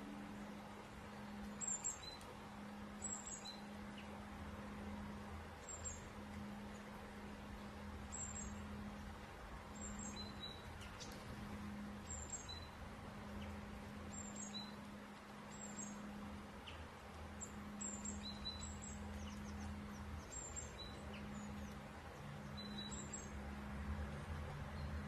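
Faint, short, high chirps of a small bird repeating about once every second or so, over a steady low hum.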